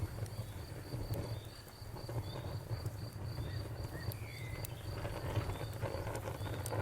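Outdoor night-forest ambience: a cricket-like insect chirping in an even, rapid pulse over a steady low rumble, with a few sharp campfire crackles and some short faint bird chirps.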